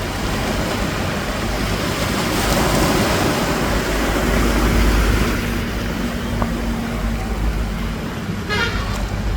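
Surf breaking along the shore with wind noise, a low rumble swelling through the middle. A brief pitched toot sounds near the end.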